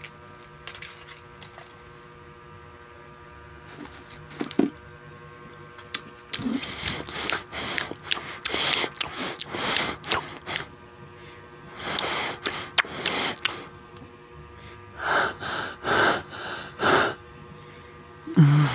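Close crunching and chewing of crispy chips, a run of crackling bites after a quiet start, then a few short breathy bursts near the end.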